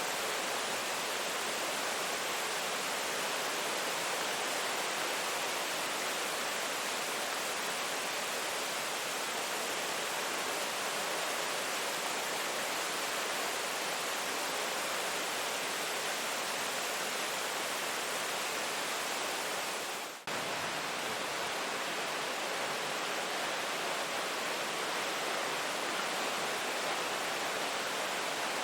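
Steady rain, an even hiss with no separate drops standing out; it dips for a moment about two-thirds of the way through.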